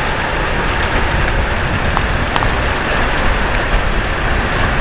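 Steady rain falling, an even hiss, with a few sharper drop ticks about two seconds in.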